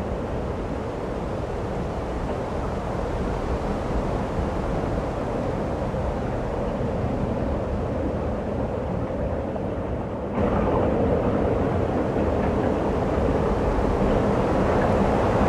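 Steady rushing wind of a snowstorm, a rumbling noise without pitch that jumps abruptly louder about ten seconds in.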